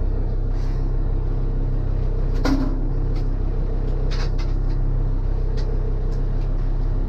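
Arvor 230 fishing boat's engine running steadily under way, with a few sharp knocks about two and a half and four seconds in.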